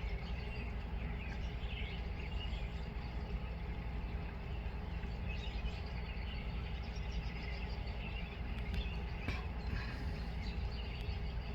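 Steady low hum with faint songbird chirps above it and a few faint taps near the end.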